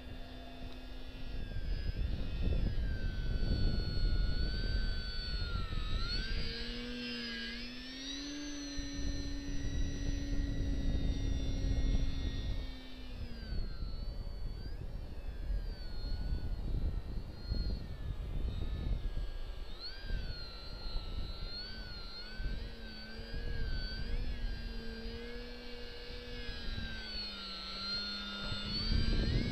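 Parkzone VisionAire electric RC plane's motor and propeller whining steadily, the pitch stepping up and down several times as the throttle changes. Gusty wind rumbles on the microphone throughout.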